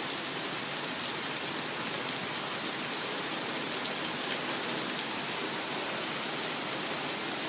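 Steady downpour of rain, an even hiss with scattered drop taps.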